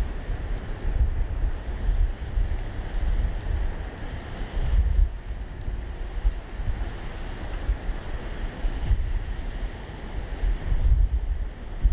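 Wind buffeting the microphone in gusts, a low rumbling blast that swells and fades every second or two over a faint steady rushing hiss.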